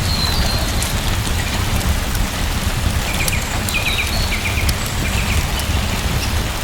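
Steady rain falling, with a deep low rumble under it and scattered sharp ticks. A few short high chirps come about three to four seconds in.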